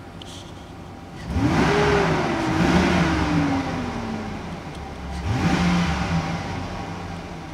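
Chevrolet 5.3 L LM7 Vortec V8 in a 2004 Silverado idling in Park, then revved twice. Each rev rises quickly and falls back slowly to idle, the first longer than the second.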